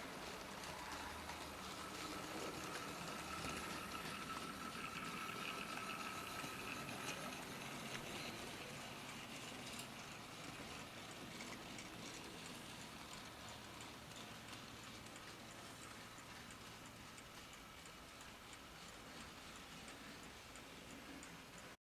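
00 gauge model freight train running on the layout track: faint wheel noise with light repeated clicking over the rail joints and a brief faint motor whine. It fades slowly, then cuts off suddenly near the end.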